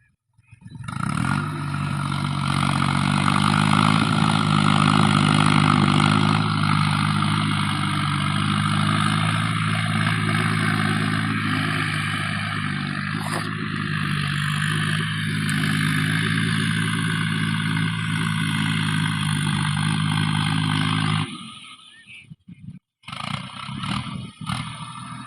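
Tractor diesel engine running steadily at an even speed, starting abruptly and cutting off suddenly about 21 seconds in, followed by a few short clattering noises.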